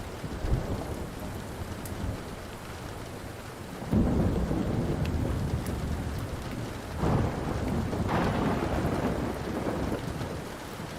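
Thunder rumbling over steady rain: a deep roll starts suddenly about four seconds in and swells again about three seconds later. A few faint sharp crackles from a wood fire sound now and then.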